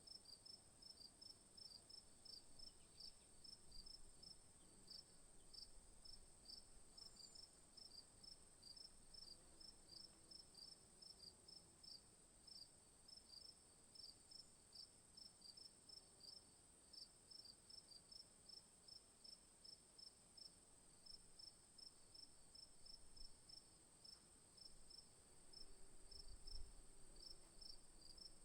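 Faint insect chorus: a steady high buzz with a rhythmic chirping at about three chirps a second, typical of crickets. A faint low rumble swells briefly near the end.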